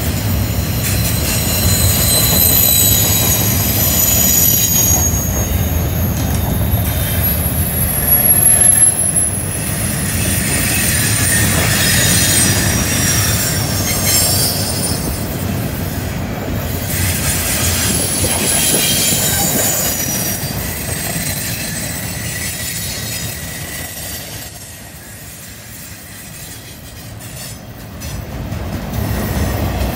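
Double-stack container cars rolling past on a curve, their steel wheels squealing against the rail in several high, wavering tones over a steady rumble. The sound dips for a few seconds near the end, then comes back up.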